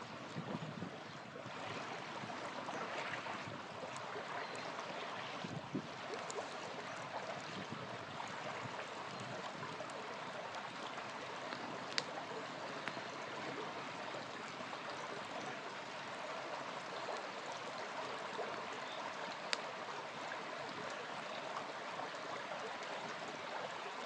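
A small river flowing steadily, with occasional sharp pops of a crackling campfire; two pops stand out, one about halfway through and one near the end.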